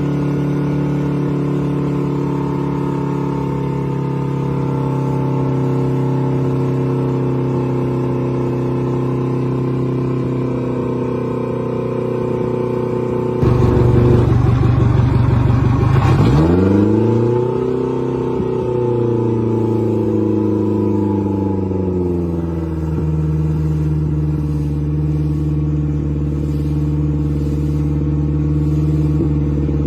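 Boat engine idling steadily. About halfway through it is suddenly opened up: the sound gets louder and rougher, the pitch climbs sharply, then it falls slowly back to idle over several seconds.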